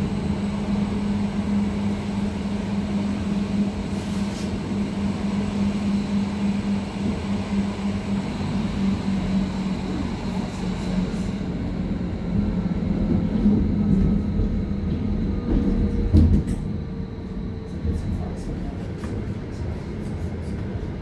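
Berlin U-Bahn type JK train running, heard from inside the car: a steady low drone with a hum from the drive. A faint whine glides in pitch through the middle. Near the end of the run there are light clicks and one heavy knock from the wheels, about sixteen seconds in.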